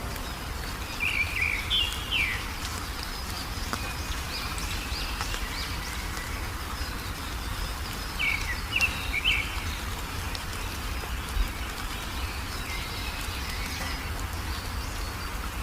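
Wild birds chirping: two short bursts of quick high chirps, about a second in and again just past the middle, over a steady low background rumble.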